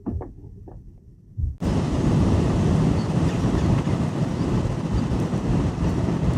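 Strong wind blowing hard across the microphone, a loud steady rush that starts suddenly about a second and a half in, after a few faint knocks.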